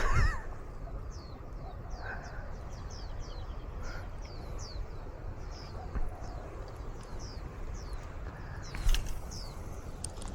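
Wild birds calling in mangroves: a steady run of short, high, downward-sweeping chirps, about two a second, over a low wind rumble. A louder, wavering call comes at the very start, and a sharp click sounds about nine seconds in.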